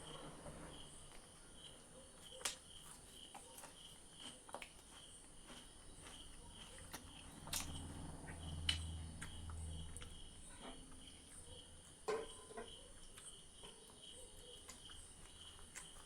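Close-up eating sounds: scattered wet smacks and clicks with low muffled chewing, over a steady faint chirping of crickets.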